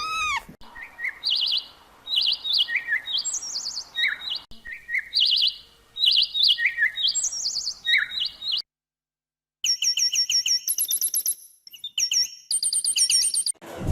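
Bird song from two separate recordings: first, short whistled chirps in quick phrases for about eight seconds, then a second of dead silence, then a different bird's rapid, high, repeated notes.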